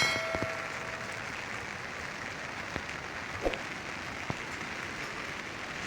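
Steady rain falling, a continuous hiss with a few scattered taps of drops striking a surface.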